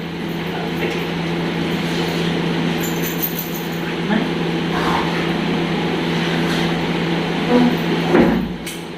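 Steady mechanical hum with a constant low tone, like a fan or motor running, with a few faint brief sounds near the middle and near the end.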